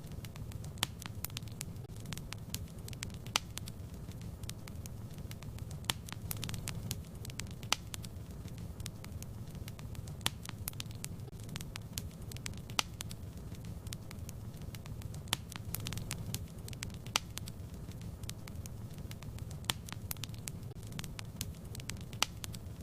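Wood fire burning in a fireplace: a steady low rumble of the flames with sharp, irregular crackles and pops from the burning logs, a few each second.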